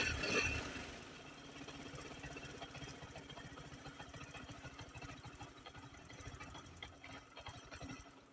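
Bajaj Boxer motorcycle's single-cylinder four-stroke engine idling on a newly fitted spark plug. It is louder in the first second, then settles to a steady, even beat and stops abruptly near the end.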